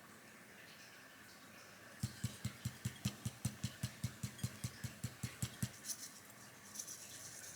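A knife chopping quickly on a cutting board, about five even strokes a second for nearly four seconds, followed by a brief rustle.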